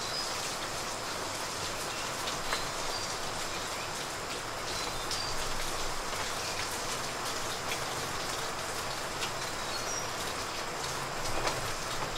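Steady hiss and patter of falling water, like rain, with scattered light ticks throughout.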